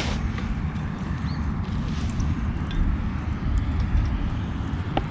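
Wind rumbling on the microphone, with a few faint light clicks and a sharper click near the end.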